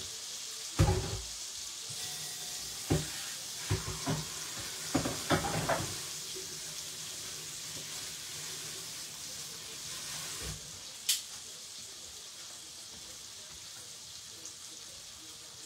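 Chicken pieces frying in a stainless steel pot, a steady sizzle throughout, easing slightly after about eleven seconds. Several short knocks and clatters of a utensil on the cookware come in the first six seconds, one more just after ten seconds, and a single sharp click about eleven seconds in.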